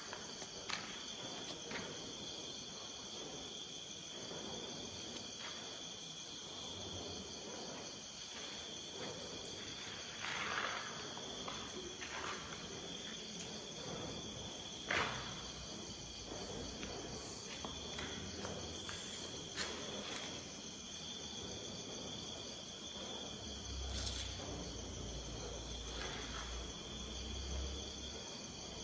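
Crickets and other night insects chirping in a steady, high-pitched drone, with a few short knocks and scuffs scattered through it and a low rumble near the end.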